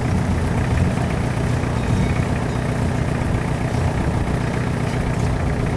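UAZ off-road vehicle's engine running steadily, a low even rumble with no revving.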